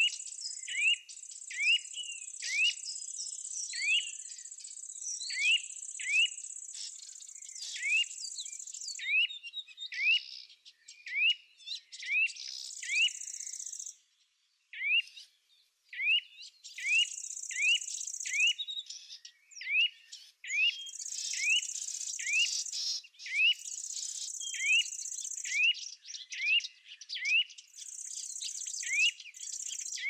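A bird repeating a short rising chirp about once a second, over an insect's steady high buzz that stops and starts in stretches. Both fall briefly silent about halfway through.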